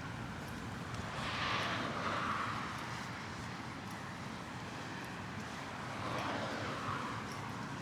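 Road traffic: a steady low rumble with two vehicles passing by, the first swelling up about a second in and the second about six seconds in.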